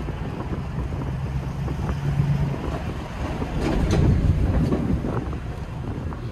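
TVR's V8 engine burbling at low road speed, heard from the open cockpit with wind buffeting the microphone. The sound swells for a moment about halfway through.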